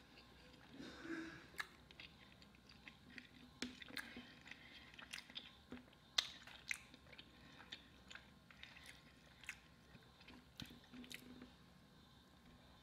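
Faint close-up chewing of a chili cheese hot dog, soft wet mouth sounds with irregular sharp little clicks.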